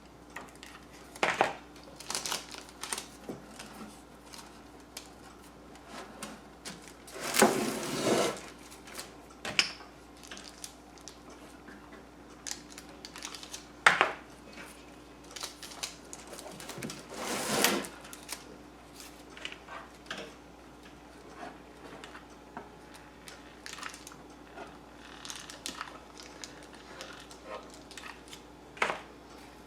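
Hands handling a metal tin, ribbon and a hot glue gun at a work table: scattered clicks and knocks, with two longer, noisier handling sounds about seven and seventeen seconds in.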